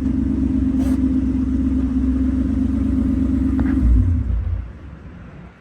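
Modified V8 car exhaust idling with a steady low rumble, a brief low surge just before four seconds, then the sound drops away sharply.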